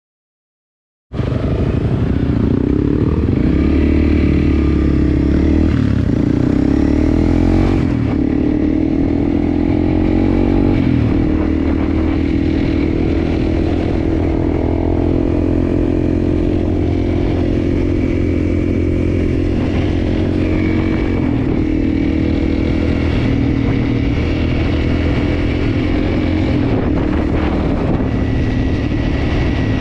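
Enduro motorcycle engine running under way, its pitch shifting up and down with throttle and gear changes. It cuts in suddenly about a second in.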